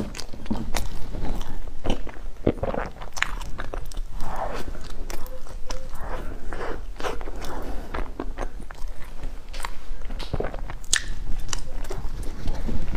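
Close-miked biting and chewing of chocolate-covered bread, with many sharp clicks and smacks of the lips and mouth.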